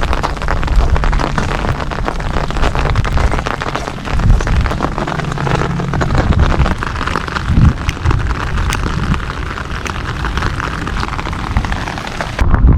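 Rain falling, with a dense patter of close, sharp drop ticks over a steady hiss and a low rumble.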